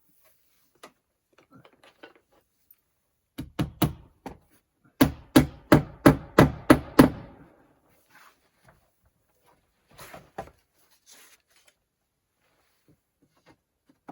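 Hammer blows driving roofing nails while shingling, in two runs: four strikes, then about eight louder, quicker strikes, with a few faint taps later.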